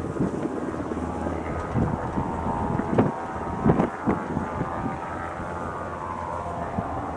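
Droning engine and propeller of a Beechcraft light propeller aircraft, heard through strong wind buffeting the microphone, with a few loud gust thumps about three to four seconds in.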